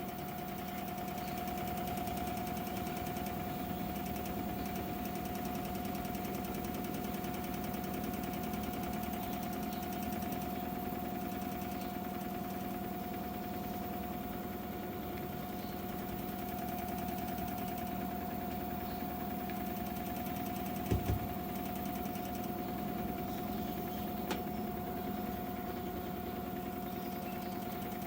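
Washing machine running on its spin cycle with an abnormal noise: a steady mechanical hum with a high whine over it. Two short knocks come about three quarters of the way in.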